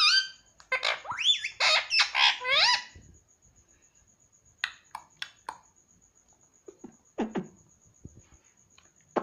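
Pet ringneck parakeet calling: a run of loud, rising and falling squeals for about two seconds, then a few short quiet chirps and clicks.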